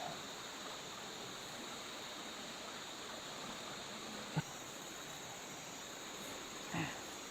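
Steady rainforest insect chorus, a high even buzz, with one sharp knock about four seconds in and a short dull thud near the end.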